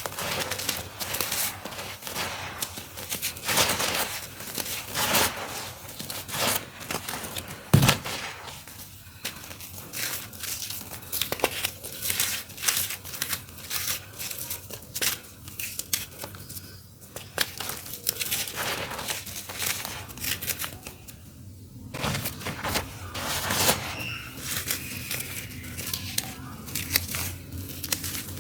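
Clumps of crunchy earthy dirt crumbling, a dense irregular run of crunching and crackling, with one sharp thud about eight seconds in.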